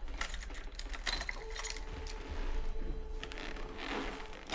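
Scattered light clicks and small metallic clinks of something being handled.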